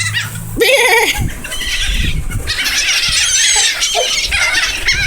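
A flock of seagulls squawking and calling over one another in a dense, overlapping clamour, with one lower call about a second in.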